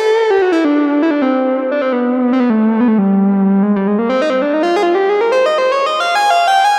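2022 reissue Minimoog synthesizer playing a single bright, overtone-rich melodic line. The notes step downward to a low point about three seconds in, then climb step by step back up to higher notes near the end.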